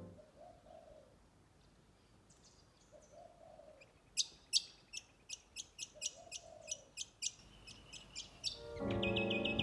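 Birds calling: three soft low hoots a few seconds apart, then from about four seconds in a quick run of sharp high chirps, two or three a second. Piano music fades out at the very start.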